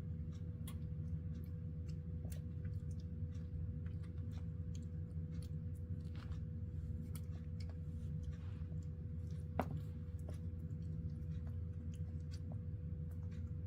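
Baby monkey chewing papaya: scattered small wet clicks and smacks of its mouth, over a steady low hum.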